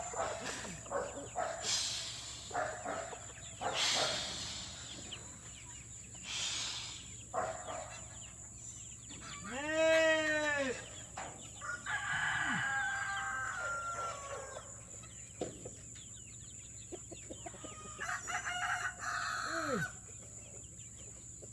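Chickens clucking, with a rooster crowing once about ten seconds in and again more briefly near the end. Short rustling noises come between the calls.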